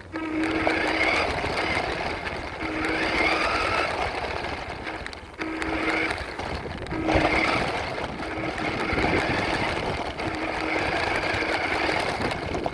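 Radio-controlled truck's electric motor and drivetrain whirring, its pitch rising and falling as it speeds up and slows, with a brief drop about five seconds in.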